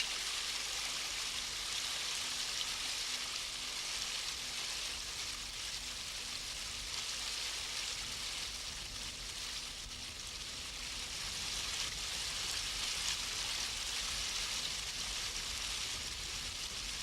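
Steady, even hiss of riverside ambience: running river water and wind, with no distinct events.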